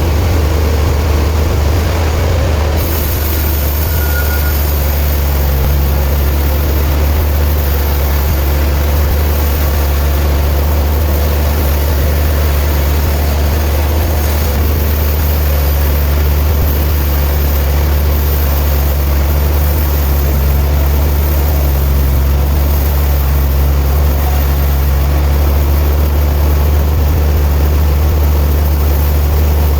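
Sawmill machinery running with a steady, loud low drone.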